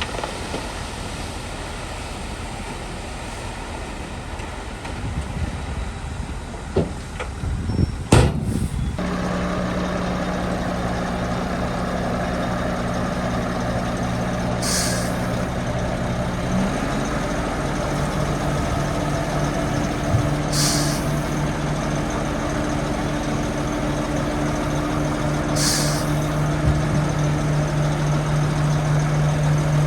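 Heavy diesel vehicle engine running, with a couple of sharp knocks about eight seconds in, after which the engine settles into a steady, slightly louder note. Short hisses of released compressed air come four times, five to six seconds apart.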